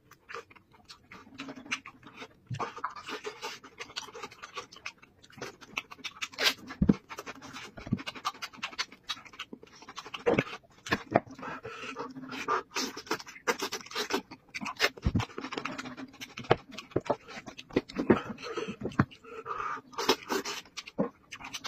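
Close-up eating sounds of a man chewing braised sheep head meat with his mouth, with many short wet smacks and clicks.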